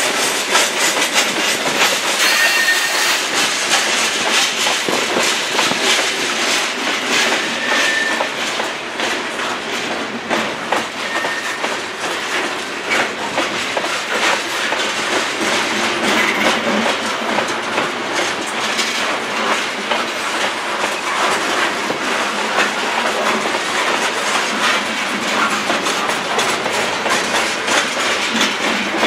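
Covered hopper cars of a freight train rolling past close by: a steady loud rumble of steel wheels on rail with a stream of clickety-clack from the wheels crossing rail joints, and a few short faint wheel squeals early on.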